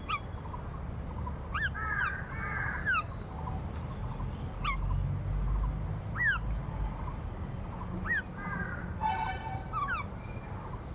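Birds calling: short sweeping chirps every second or two, with a longer call in several stacked tones about nine seconds in.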